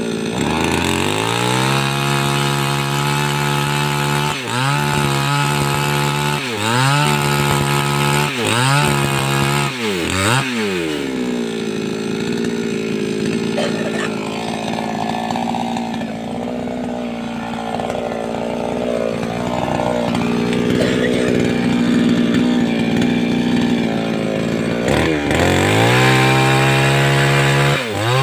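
588X two-stroke petrol chainsaw running at high revs, the throttle let off and opened again several times in the first ten seconds or so. It then runs long and rough at a lower, steadier pitch as it cuts through sengon wood, and revs freely again near the end.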